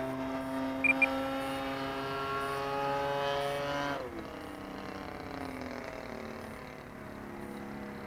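RC model airplane making a low, fast pass overhead. Its motor and propeller give a steady pitched drone that climbs slightly, then drops sharply in pitch about four seconds in as it passes and goes on lower and fainter. Two short high beeps come about a second in.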